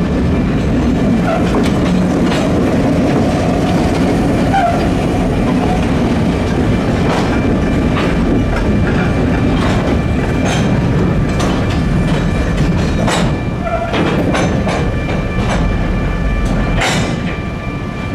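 Slow freight train behind a diesel switcher locomotive crossing a street grade crossing: the locomotive's engine drones, then the freight cars roll by with a steady rumble and repeated clanks and clicks of wheels over the crossing and rail joints. A thin steady squeal joins in from about halfway through.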